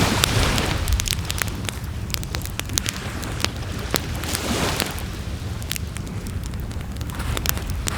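Wood fire in a campfire pit crackling and popping with frequent sharp snaps, over a steady low rumble of wind and surf on the shore. Swells of surf wash in near the start and again about halfway through.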